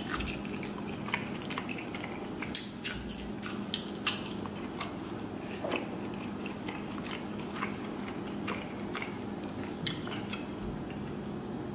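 A person chewing lobster tail meat close to the microphone: irregular wet mouth clicks and smacks, a few every second, over a faint steady hum.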